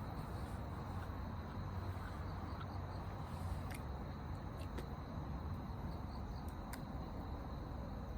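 Outdoor ambience: a steady low rumble with a faint continuous insect trill, and a few sharp crackles about four, five and seven seconds in.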